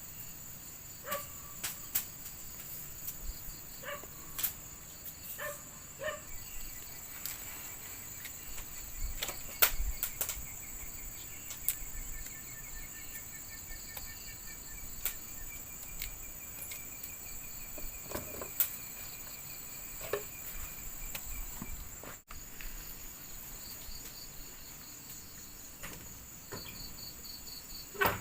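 Steady high-pitched insect chirring, with scattered sharp clicks and knocks throughout.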